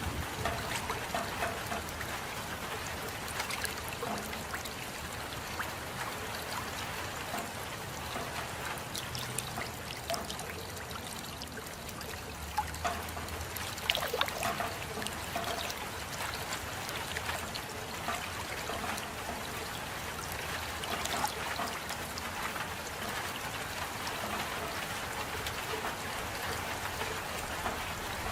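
Steady rain falling, with close drips and patters sounding over an even wash of water; a few drops land louder about 13 and 14 seconds in.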